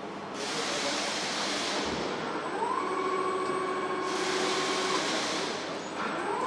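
Assembly-plant machinery noise: two long stretches of hissing, like compressed air, with a machine whine that rises in pitch and then holds steady, first about two and a half seconds in and again near the end.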